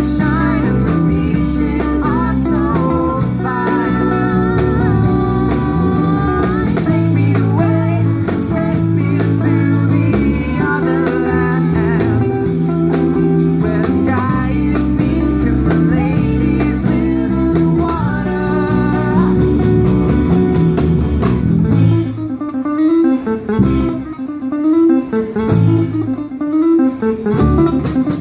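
Band music: guitar and bass over a steady accompaniment, with a wavering lead line. About 22 seconds in it drops to a sparser, choppier passage.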